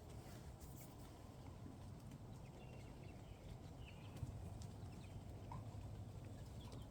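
Faint short chirps of backyard chickens, with scattered small clicks over a steady low rumble.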